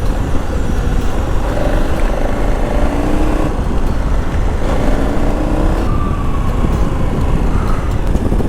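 KTM 1290 Super Adventure's V-twin engine running under way, its note slowly rising and falling, under steady wind noise on the microphone.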